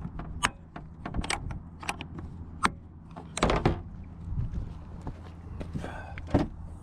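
Scattered clicks and knocks of things being handled and stowed inside a vehicle cab, over the steady hum of the idling engine. The loudest knock comes about halfway through.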